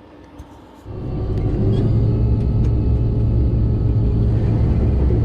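Combine harvester engine running steadily at a loud, even drone, cutting in suddenly about a second in after a quiet start.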